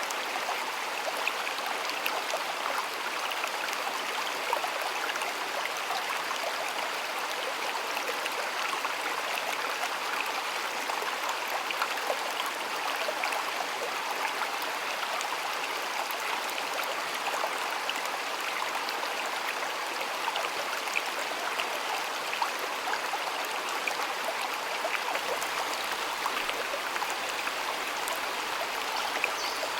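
Flowing water running steadily, with many small splashes and ticks of water through it.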